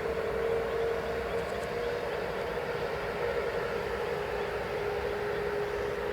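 Boeing 777F's twin GE90 turbofan engines on approach: a steady whine over a broad rushing noise, the whine sinking slightly in pitch over the seconds.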